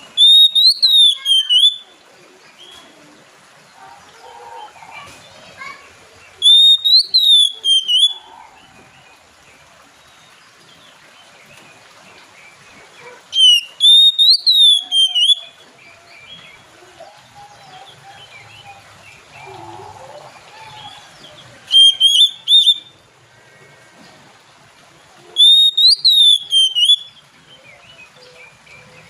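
Oriental magpie-robin (kacer) calling in five loud bouts of about two seconds, each a quick run of clear whistled notes that rise and then fall, with pauses of several seconds between bouts.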